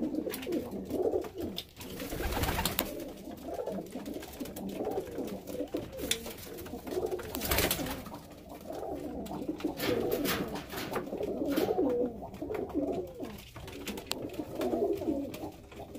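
Several domestic pigeons cooing over one another without pause in a small enclosed loft: the courtship and nest-claiming calls of newly paired birds. Twice, about two and a half and seven and a half seconds in, a short rustling burst cuts through.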